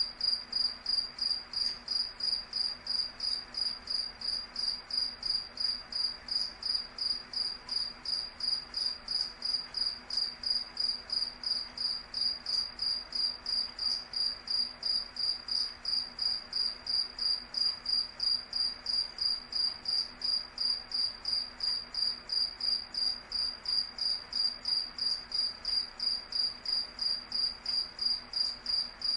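Cricket chirping steadily: a high-pitched chirp repeated evenly at about three a second without a break.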